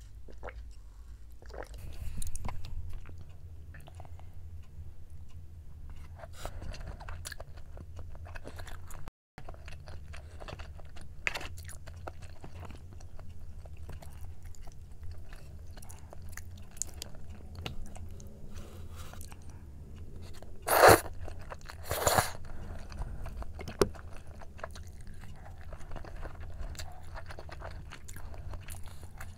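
Close-miked chewing of Korean braised chicken (jjimdak) and its vegetables, with soft wet bites, crunches and small chopstick clicks. Two much louder sharp sounds come about two-thirds of the way through, over a low steady hum.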